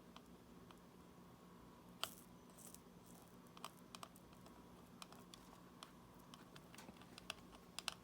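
Faint, scattered small clicks and ticks of tools and tiny parts being handled in a smartwatch repair, the sharpest one about two seconds in.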